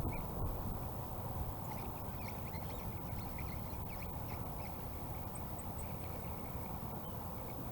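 Birds calling with short, repeated chirps over a steady low rumbling noise, with a few tiny high peeps about two-thirds of the way in.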